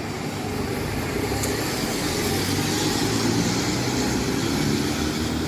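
Street traffic: a motor vehicle's engine running close by over road noise, getting a little louder from about two seconds in.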